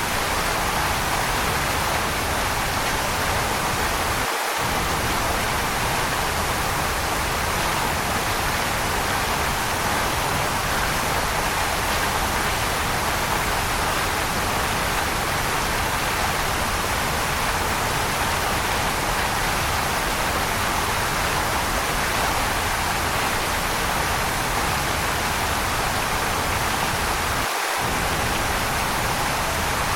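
Waterfall rushing in a steady, unbroken roar of falling water. The deep low end drops out for an instant twice.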